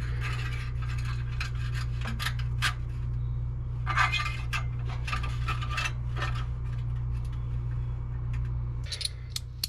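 Hand tools and metal exhaust parts clinking and scraping in irregular knocks and scrapes while an exhaust clamp is being fitted, over a steady low hum that stops near the end.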